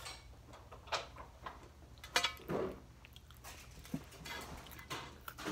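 A few sharp knocks and scuffs as a person moves about and settles back at a table, with chewing on a crunchy breadstick snack.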